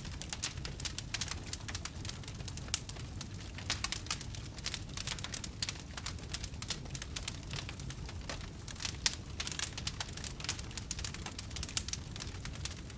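Wood campfire burning, with dense irregular crackles and pops over a steady low rumble of the flames.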